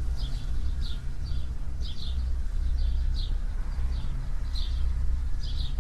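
A bird chirping repeatedly, short falling chirps about twice a second, over a steady low rumble.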